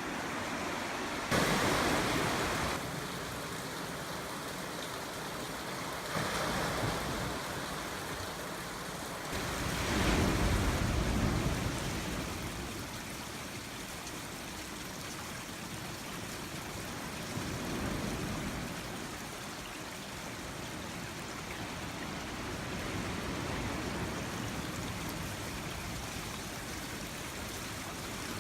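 Ocean surf, a steady wash of noise that swells every several seconds as waves break, the loudest swell about ten seconds in.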